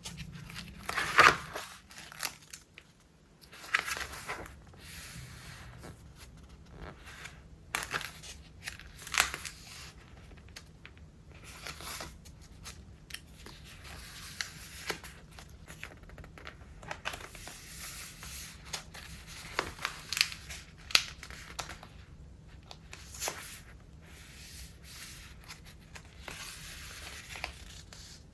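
Pages of a thick, collage-filled Traveler's Notebook being turned one after another: stiff layered paper rustling and crinkling in irregular swishes, the loudest about a second in.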